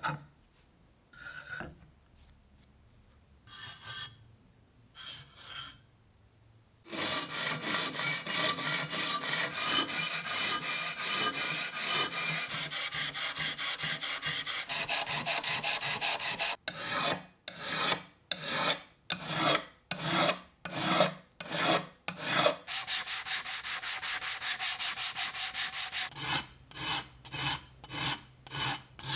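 Hand-abrading strokes, a rapid back-and-forth rubbing like sanding or filing. A few scattered strokes open it, then about nine seconds of quick steady strokes, a spell of slower separate strokes, a second quick run, and slower strokes near the end.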